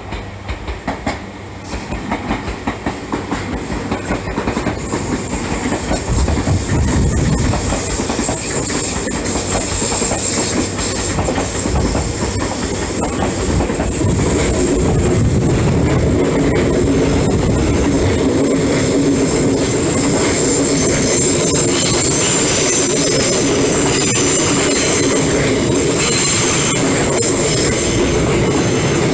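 Tokyo Metro 08 series electric train running past close by, its wheels clacking over rail joints; the sound builds over the first several seconds. Once the train is alongside, a steady high wheel squeal and a steady hum run on.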